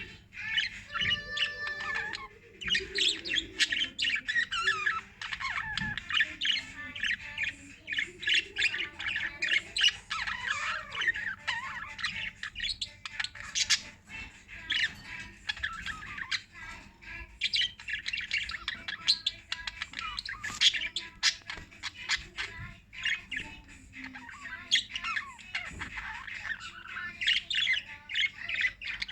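A group of small pet parrots chirping and squawking in continuous, dense overlapping chatter.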